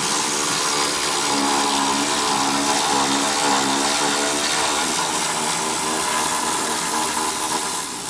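A machine running steadily for about nine seconds, a loud hissing rush over a low, slightly wavering hum, starting suddenly and stopping shortly after.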